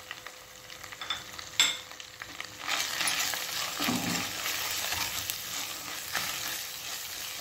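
Onion, ginger and garlic paste frying in oil in a non-stick kadhai as spice powders are stirred in with a spatula: scraping and a single sharp knock, then a loud sizzle that rises about two and a half seconds in and slowly eases.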